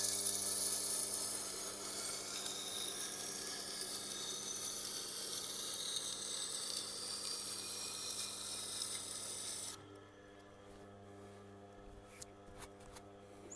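Steel knife blade being ground against a 320-grit diamond wheel on a Tormek sharpener, a steady hissing scrape that stops abruptly about ten seconds in. The machine's motor keeps up a low hum underneath and after.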